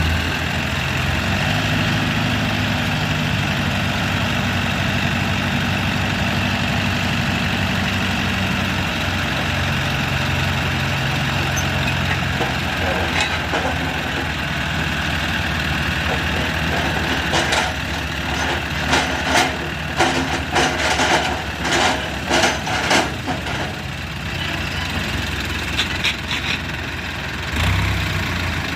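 Tractor engine running steadily at idle, with a run of sharp knocks about two-thirds of the way through.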